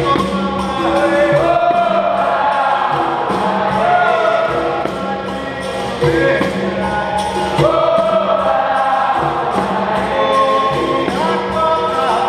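Capoeira Angola roda music: a group of voices singing a song together over the bateria's berimbaus and percussion, which keep a steady, even beat.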